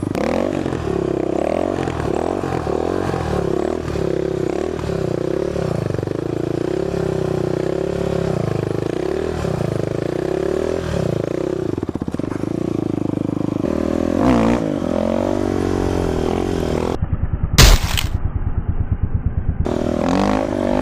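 Single-cylinder four-stroke dirt bike engine running, its revs rising and falling again and again as it is ridden. About seventeen seconds in there is a sharp, loud knock, followed by a few seconds of pulsing.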